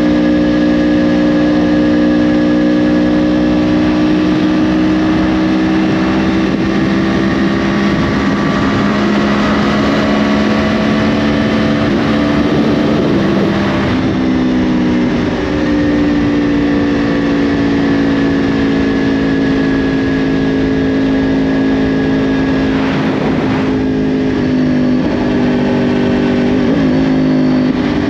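2010 Yamaha R1's crossplane-crank inline-four, fitted with a Yoshimura exhaust, running under load on the road. Its note holds fairly steady and rises slowly, dips briefly about halfway through, then holds again with small pitch shifts near the end.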